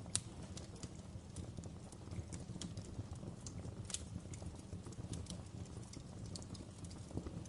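Wood fire in a fireplace crackling: sharp, irregular pops and snaps over a steady low rumble of the burning fire, with a louder pop just after the start and another about four seconds in.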